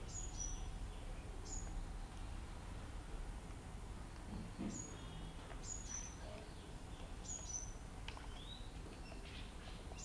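Birds chirping outdoors: short, high calls that fall in pitch, repeated every second or two, with a rising call near the end. A steady low rumble runs underneath.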